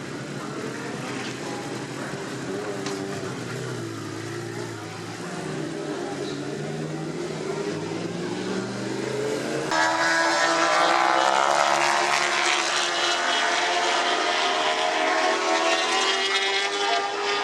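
Racing motorcycle engines running and revving, their pitch rising and falling. About ten seconds in, a louder engine at high revs cuts in abruptly and holds.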